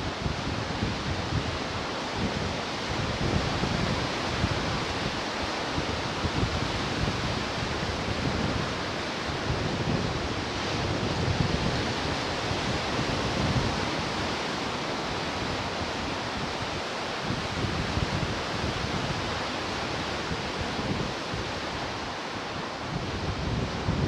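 Ocean surf washing steadily, with wind gusting on the microphone as a low, uneven rumble.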